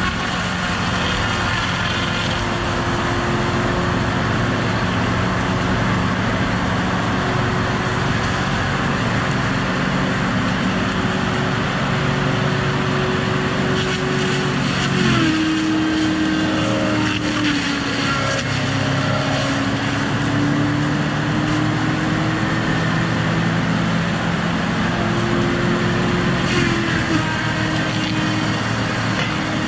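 Diesel engine of a Tigercat feller buncher running steadily. About halfway through, its note drops suddenly as it takes a load, then slowly climbs back. It dips briefly again near the end.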